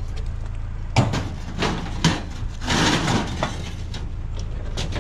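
Scrap being handled: two sharp knocks about a second apart, then a longer rustling scrape and a few small clicks, over a steady low hum.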